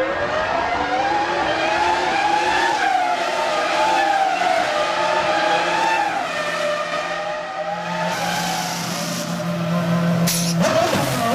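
Formula One car's V10 engine running at high revs, its pitch rising and falling with throttle and gear changes. The sound changes abruptly near the end.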